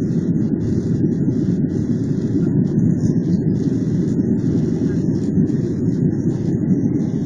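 Airliner engines and rushing air heard inside the passenger cabin during takeoff: a steady, deep roar with no change in pitch.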